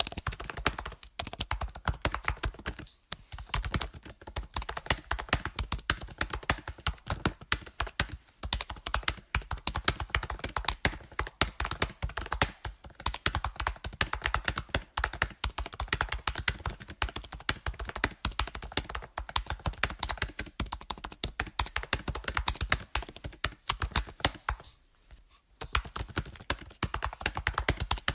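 Computer keyboard being typed on steadily, a fast irregular run of key clicks and taps broken by short pauses, the longest about 25 seconds in.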